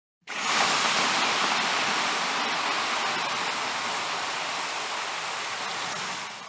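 Steady rushing of water that starts suddenly and eases slightly in level toward the end.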